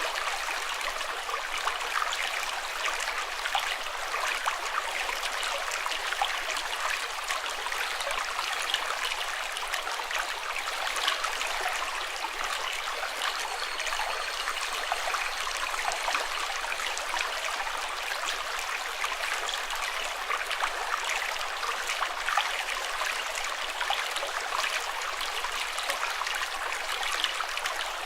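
Running water flowing and splashing steadily, with a dense fine crackle of small splashes and little deep rumble.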